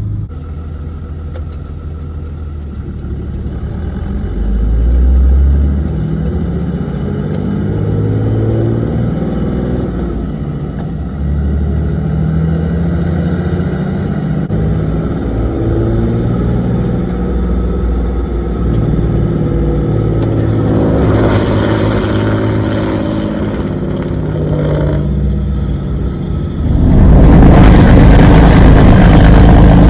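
A 2011 Ram 2500's 6.7-litre Cummins inline-six turbo-diesel pulling on a drive, its note climbing and dropping several times as the truck is run through the gears of the G56 manual. About three-quarters of the way through, a much louder rushing noise sets in suddenly and stays.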